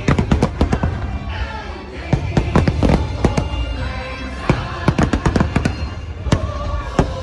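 New Year's Eve fireworks bursting in quick, irregular volleys of sharp bangs and crackles over the show's music soundtrack.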